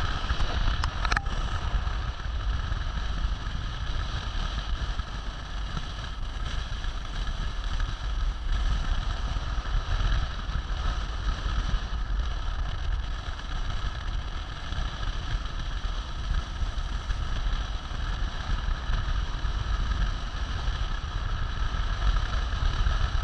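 Vehicle driving steadily: continuous low engine and road rumble with a steady high whine over it.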